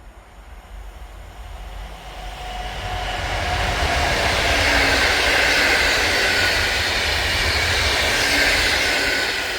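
Train approaching and passing at speed: the rush of wheels on rail swells over about four seconds, stays loud, then begins to fade near the end.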